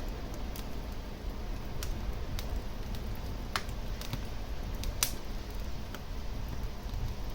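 Wood fire burning in a fireplace: a steady low rumble of flames with a handful of sharp crackling pops, the loudest about five seconds in.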